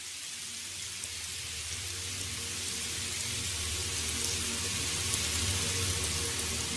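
Steady rain falling with a dense hiss, slowly growing louder, over a faint low hum.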